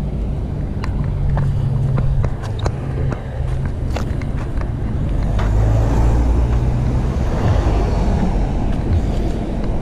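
Riding a fixed-gear bike up an overpass: steady low rumble of road, wind and motor traffic, with a scatter of sharp clicks and knocks in the first half.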